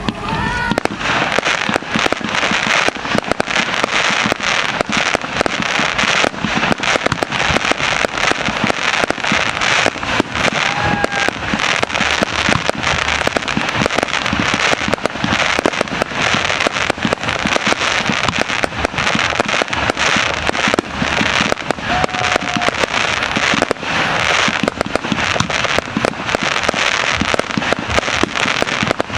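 Fireworks display going off in a dense, unbroken barrage of bursts and crackling.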